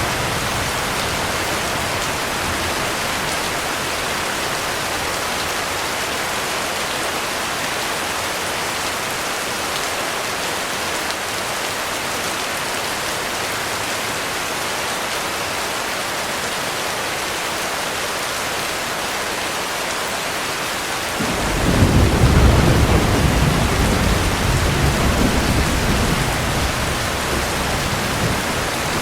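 Steady heavy rain. About three quarters of the way through, a low roll of thunder starts suddenly, rumbles for a few seconds and slowly fades.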